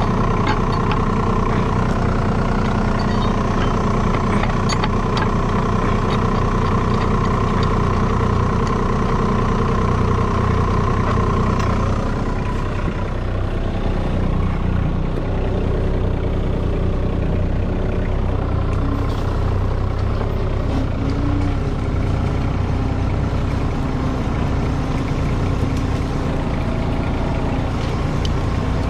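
Tractor engine running steadily, its note shifting about twelve seconds in.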